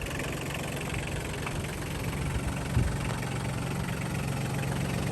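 Kubota B1750's small three-cylinder diesel engine idling steadily, with one brief knock about three seconds in.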